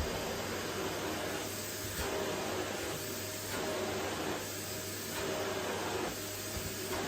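Vacuum cleaner running over a wooden floor, a steady whooshing hum. Its tone shifts in a regular pattern about every second and a half as the nozzle is pushed back and forth.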